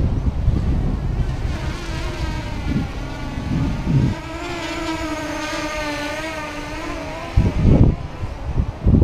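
A 250mm quadcopter's motors and propellers buzzing, the pitch wavering up and down as the throttle works. Wind buffets the microphone, with strong gusts near the end.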